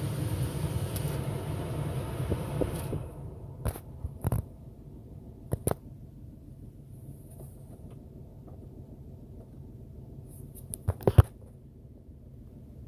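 Steady low rumble of the Ford F-350 pickup, with a few sharp clicks and knocks. A hiss in the first three seconds cuts off suddenly, and a quick cluster of louder clicks comes near the end.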